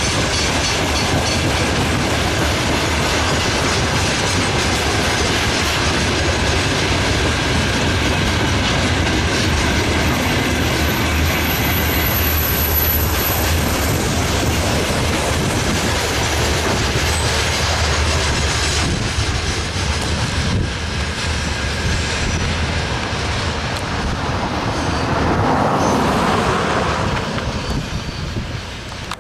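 Covered hopper wagons of a long freight train rolling past, wheels clattering over the rail joints, with a thin high wheel squeal about twelve seconds in. The sound dies away in the last couple of seconds as the wagons move off.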